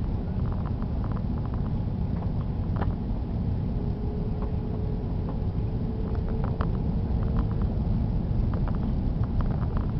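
Steady low rumble of an Airbus A330's engines and airflow heard inside the cabin in flight, with small scattered rattles and ticks.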